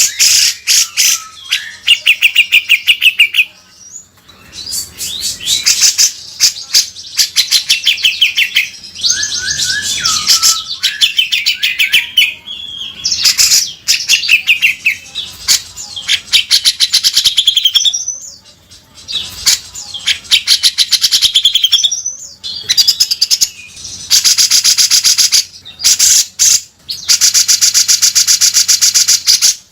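Cucak jenggot (grey-cheeked bulbul) singing continuously in harsh, rasping 'beset' phrases: fast rattling trains of notes mixed with chirps. Near the end come two long, very rapid buzzy rattles.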